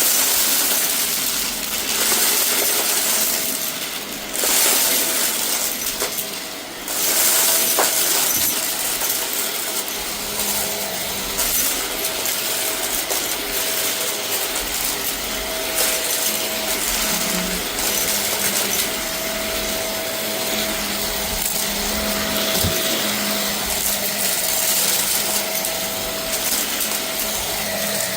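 Vacuum cleaner running steadily, its motor humming under a constant rush of air, with small hard debris rattling and clinking as it is sucked up. The sound dips briefly twice in the first seven seconds.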